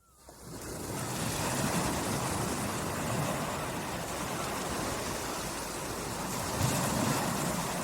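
Small sea waves lapping and washing on the shore, a steady wash of surf that swells now and then. It fades in from silence during the first second.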